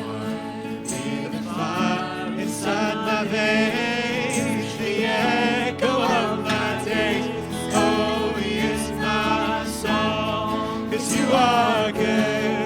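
Contemporary Christian worship song: sung vocals over instrumental accompaniment.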